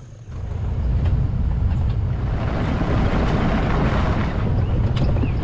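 A vehicle moving along with a steady low rumble, wind buffeting the microphone over it; it comes in abruptly about a third of a second in.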